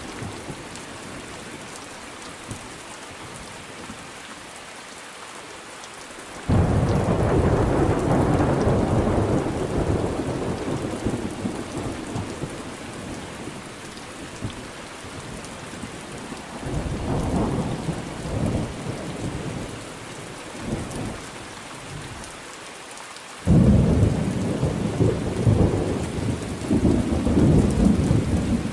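Thunderstorm: steady rain with rolls of thunder. A loud low rumble breaks in suddenly about a quarter of the way in and fades slowly, a smaller roll comes a little past the middle, and a second sharp crack and rumble starts about four-fifths of the way through.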